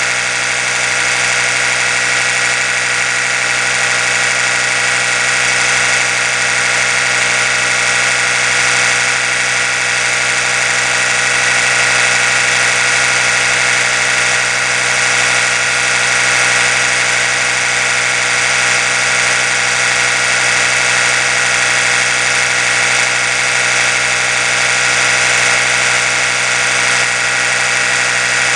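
Oral-B electric toothbrush motor running continuously: a steady, buzzing whine that does not change.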